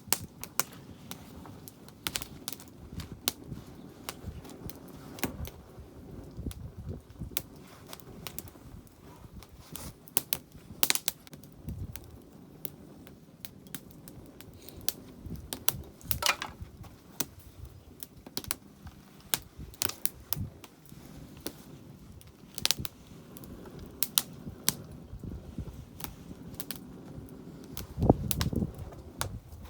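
Wood campfire crackling, with sharp pops at irregular intervals over a low rumble. Near the end comes a louder, low rushing burst.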